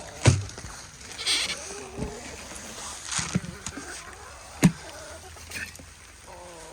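Chickens making a few short bleat-like calls, among scattered sharp knocks and taps.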